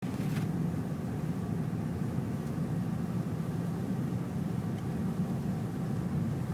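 Steady low rumble of a car in motion heard from inside the cabin: engine and tyre noise on a snowy road, with a brief click just after the start.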